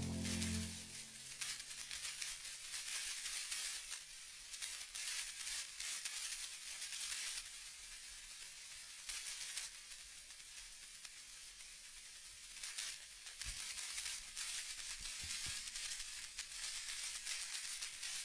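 Faint crackling hiss with scattered clicks. A low tone fades out in the first second, and a few soft low thumps come about two-thirds of the way through.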